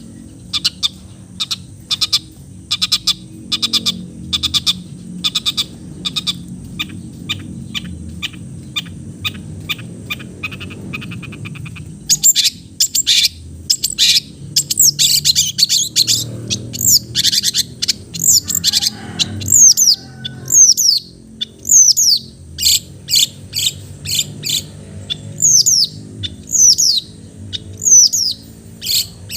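Long-tailed shrike (cendet) singing. It opens with a fast run of short, clicking chatter notes, then about halfway through switches to loud, sharp whistles that slide downward, repeated over and over.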